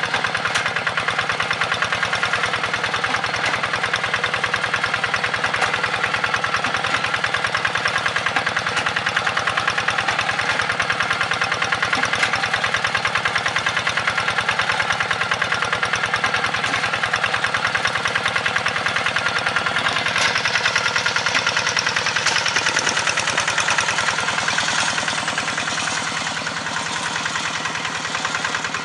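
Walk-behind hand tractor's engine running with a rapid, even chugging, easing slightly in loudness near the end.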